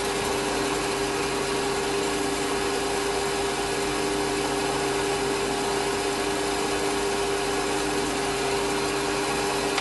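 Small metalworking lathe running at a steady speed, its motor and spindle giving an even hum with two held tones, while a tool cuts and blends a shallow half-millimetre undercut groove in a small turned funnel.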